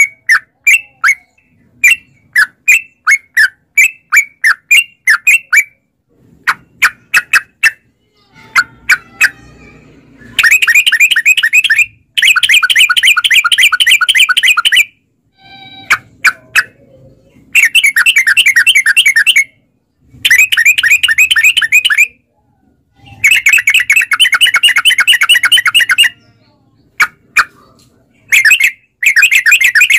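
Yellow-vented bulbul (trucukan) calling. It gives a run of short, separate chirps for the first several seconds, then long, fast chattering trills of two to four seconds each, repeated with short gaps.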